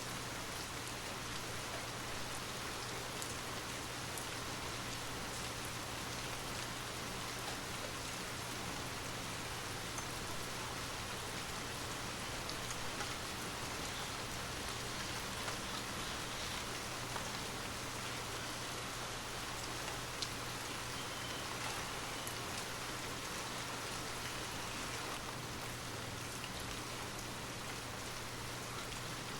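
Steady rain falling, with scattered drop ticks over an even hiss and a low steady hum beneath.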